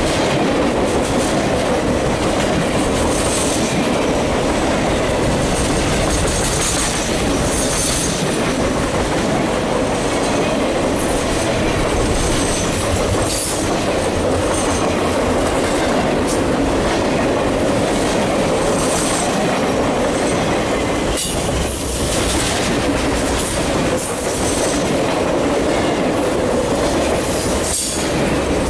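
Norfolk Southern Triple Crown RoadRailer train rolling past close by: steady loud wheel-on-rail noise, with clicks and clacks scattered all through as the trailers' rail bogies pass.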